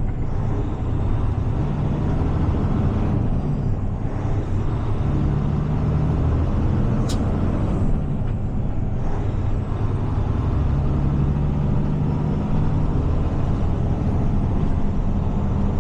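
Heavy tow truck's diesel engine running as it drives slowly, a steady low drone that rises and falls in pitch a few times. A single sharp click sounds about seven seconds in.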